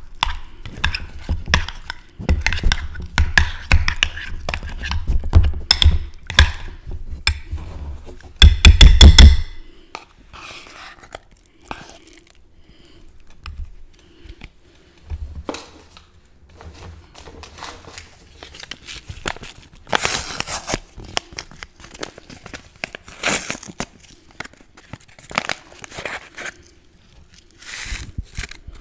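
Close-miked crunching of chips being bitten and chewed, dense and loud for the first nine seconds or so, loudest just before ten seconds in, then sparser crunches.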